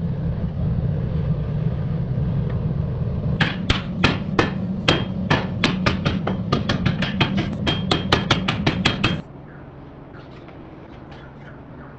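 Hammer striking steel on an anvil while forging a truck leaf spring into a blade, about four blows a second with a metallic ring. The blows run over a steady low rumble, and both cut off suddenly near the end.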